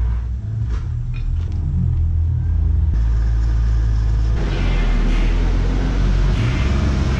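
Low, steady car engine rumble, shifting slightly in pitch about three seconds in and again about four and a half seconds in.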